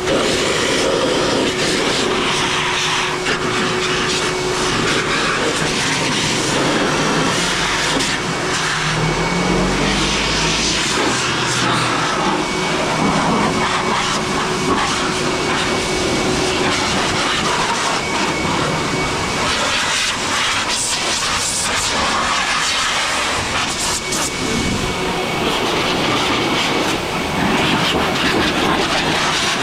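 Car wash air-dryer blower running steadily, a loud rush of air with a faint motor whine, as it blows the water off a motorcycle.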